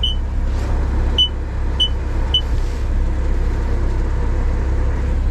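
Seatbelt warning chime in a BMW M340i beeping four short high beeps in the first half, over the car's steady low engine rumble in the cabin.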